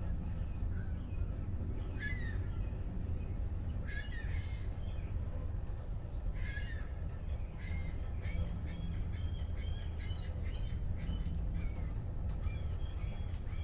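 Birds calling: three harsh, caw-like calls about two seconds apart, then a run of shorter chirps, over a steady low rumble.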